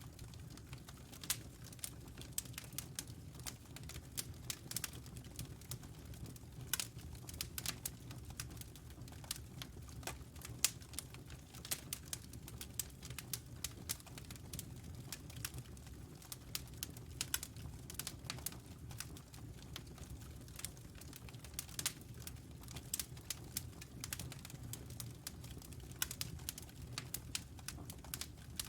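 Wood fire crackling in a fireplace: irregular sharp snaps and pops, several a second with an occasional louder one, over a steady low hum.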